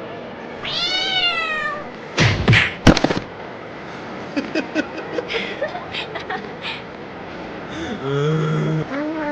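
A cat meows once, a drawn-out call that rises and then falls in pitch. It is followed by a few loud sharp knocks and a run of light clicks.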